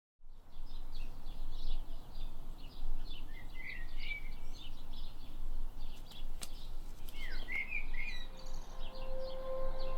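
Small songbirds chirping and twittering over a steady outdoor background noise. A held musical tone like a singing bowl comes in near the end.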